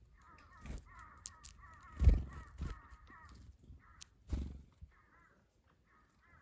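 Birds calling: a long run of quick, wavering notes, then shorter bursts of the same notes near the end. Several low thumps come in between, the loudest about two seconds in.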